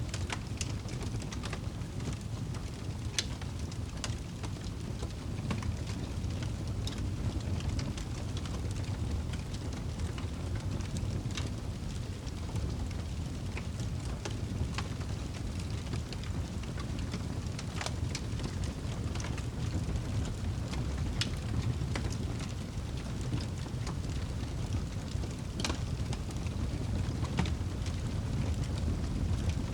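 Campfire crackling, with sharp pops and snaps at irregular moments over a steady low rumble.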